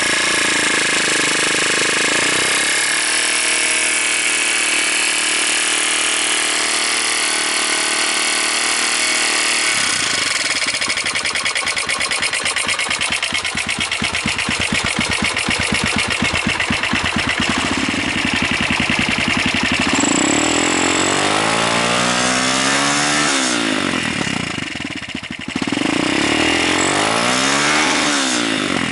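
Honda FTR223's single-cylinder engine running through an aftermarket Moriwaki Zero exhaust. It runs at a steady speed, settles into an idle with an even pulse about ten seconds in, and is revved twice near the end.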